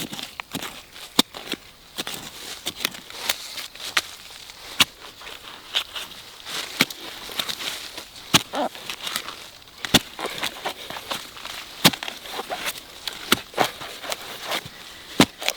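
Irregular crackling and snapping of dry fallen leaves and twigs being disturbed, many sharp snaps at uneven intervals over a faint steady hiss.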